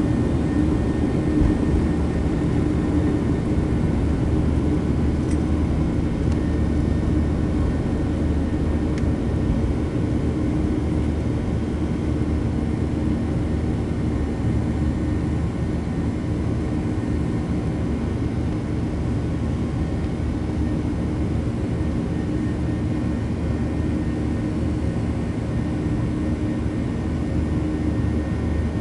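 Cabin noise inside a Boeing 737 during takeoff: the jet engines and airflow make a steady, even noise with a low hum in it.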